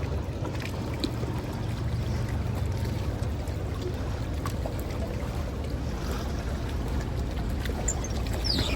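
Fishing boat on the river: a steady low rumble with water sounds around the hull and a few faint ticks.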